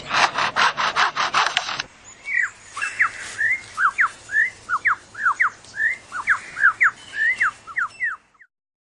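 Superb lyrebird mimicking a chainsaw: a rapid rasping buzz, about five strokes a second, for roughly two seconds. It then breaks into a run of clear, swooping and falling whistled notes, two to three a second, that stop shortly before the end.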